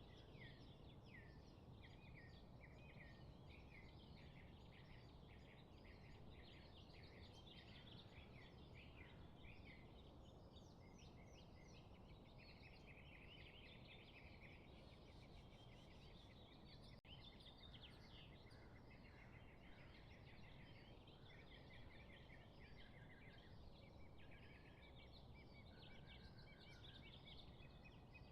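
Faint chorus of many small songbirds chirping and trilling in quick overlapping calls, over a steady low background hiss.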